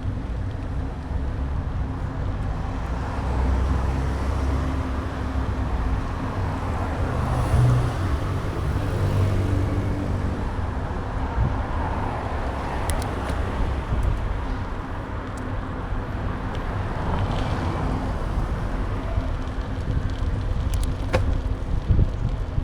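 Wind and road rumble on the microphone of an action camera mounted on a moving bike, with traffic noise. A vehicle engine hums steadily through the first several seconds.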